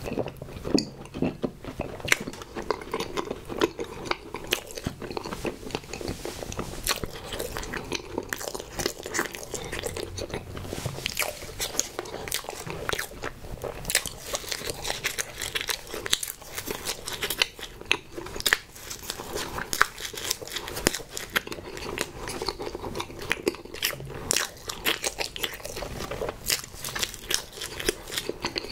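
Close-miked biting and chewing of Twinkie Sno Ball snack cakes (pink coconut-coated marshmallow over chocolate cake), with many sharp mouth clicks throughout.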